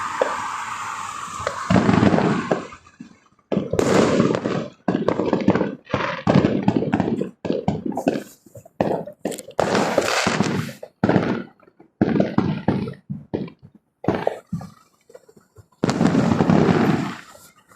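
Fireworks display: a steady hiss at first, then a rapid, irregular run of loud bangs and crackling bursts with brief gaps between them.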